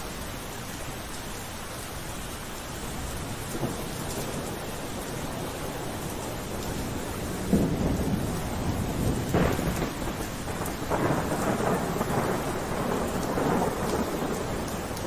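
Steady rain, with a rumble of thunder rolling in about halfway through and carrying on to the end.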